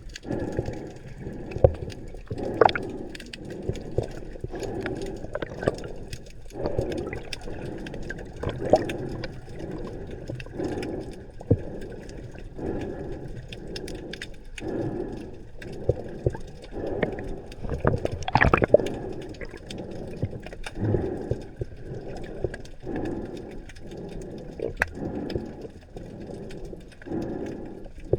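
Water gurgling and bubbling in repeated short surges about once a second, with scattered sharp clicks.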